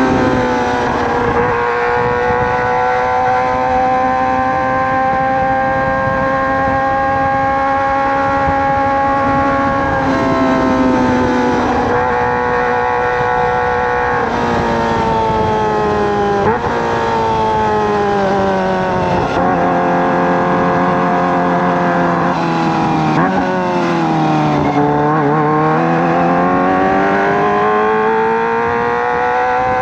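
Kawasaki ZX-25R's 250 cc inline-four running through a Racefit Slash aftermarket exhaust while riding. The note holds high and steady for the first ten seconds or so, dips several times, falls to its lowest about 25 seconds in, then climbs again near the end.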